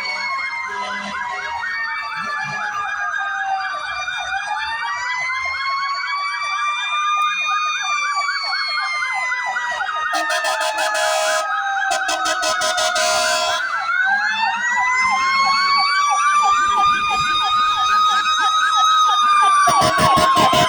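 Sirens of several fire trucks sounding at once, slow rising-and-falling wails overlapping with a fast warbling yelp, growing louder toward the end. Two short harsh blasts cut in about halfway through.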